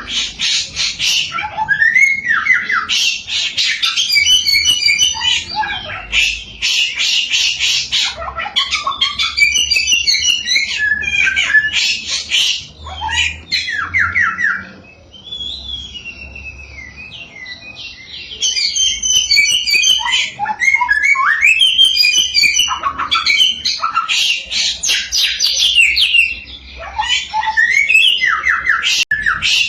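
Samyong songbird singing a loud, varied song of rapid chirps, trills and gliding whistles, with a brief lull of fainter notes around the middle.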